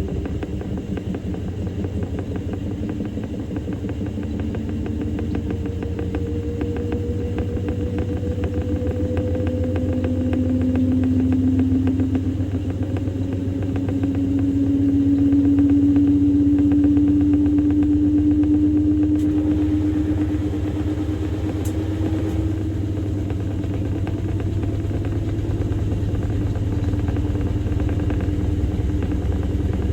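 Samsung Grande front-loading washing machine running, its drum turning with a steady low rumble. A motor whine rises slowly in pitch through the middle, as the drum speeds up.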